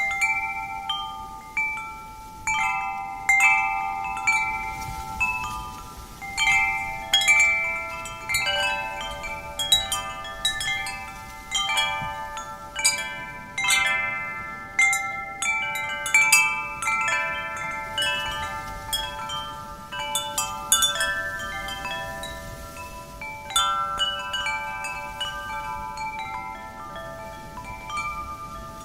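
Wind chimes ringing, struck irregularly by the wind: many overlapping clear metallic tones that ring on and fade, with a faint wind hiss beneath.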